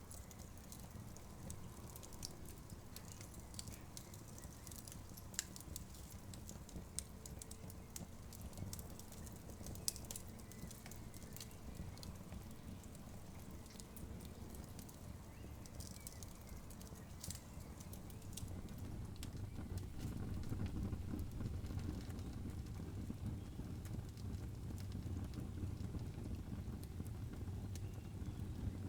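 Wood campfire burning, crackling with scattered sharp snaps and a few louder pops over a low rumble of the flames; the low rumble grows louder about twenty seconds in.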